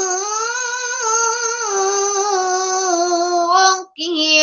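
A 13-year-old boy's voice in melodic Quran recitation (tajweed), holding one long drawn-out note whose pitch rises and falls gently. It breaks off near the end for a breath, and the next phrase begins.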